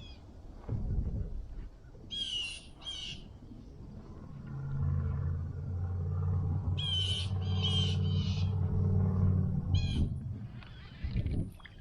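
Harsh bird squawks in pairs, two pairs and then a single call near the end, over low wind rumble on the microphone. A steady low motor hum comes in about four seconds in and fades out around ten seconds.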